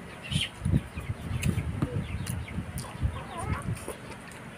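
Close-up chewing and mouth smacking of someone eating boiled pork leg with rice by hand, with chickens clucking in the background.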